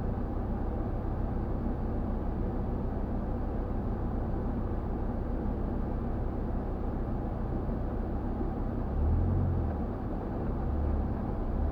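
4x4 vehicle driving over desert sand: a steady low engine and drivetrain rumble with a haze of tyre and wind noise. It swells louder twice near the end, as the engine takes on more load.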